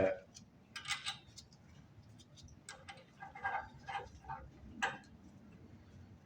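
Irregular light clicks and clinks of small metal hardware being handled, such as washers and a nut picked out and sorted. The sharpest click comes near the end.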